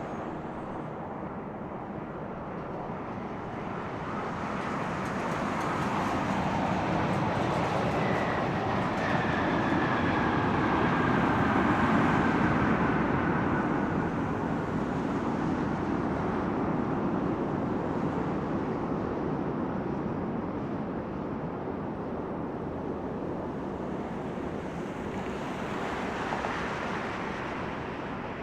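Boeing 787-8 Dreamliner's jet engines going past on landing: a broad rumble that swells to its loudest about twelve seconds in and then slowly fades, with a faint falling whine near the peak.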